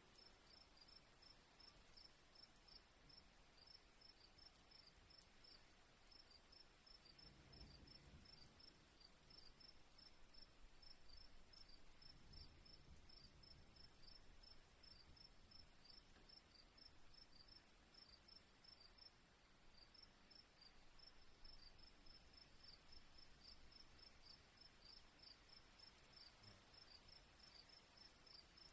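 Faint crickets chirping: a continuous high trill with rapid, evenly repeated short chirps over it.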